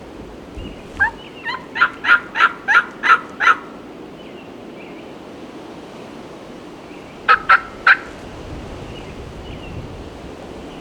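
Turkey yelps: a quick run of about eight sharp notes, then a short series of three a few seconds later, over low wind rumble on the microphone.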